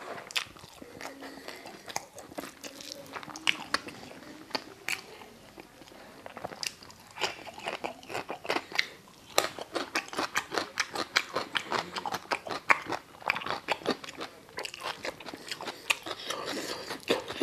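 Close-miked chewing of a mouthful of paneer and rice: wet lip smacks and mouth clicks in quick irregular succession, growing denser about halfway through, with a brief low hum about a second in.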